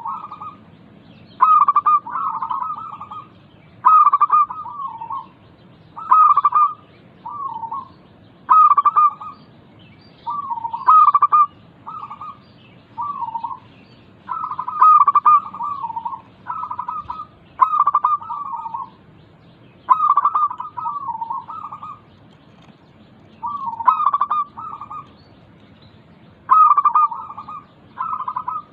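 Zebra dove (local perkutut) singing its cooing song over and over, a short phrase roughly every two seconds, each starting sharply and then trailing off.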